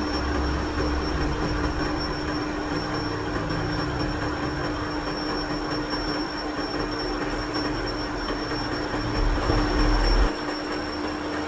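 A machine running steadily with a constant high whine over a mechanical rumble; the low rumble swells near the end and drops off suddenly.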